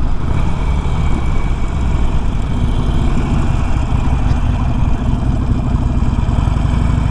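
Harley-Davidson Sportster 883's V-twin engine running steadily at low speed, a loud continuous low rumble, with an even engine note coming in about two and a half seconds in.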